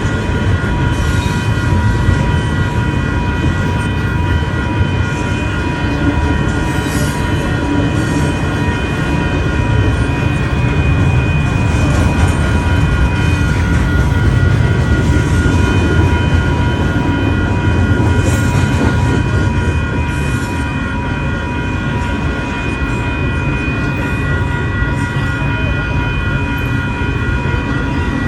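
A train passing a railroad grade crossing while the crossing's electronic bell rings on, a set of steady high ringing tones over the train's continuous low rumble.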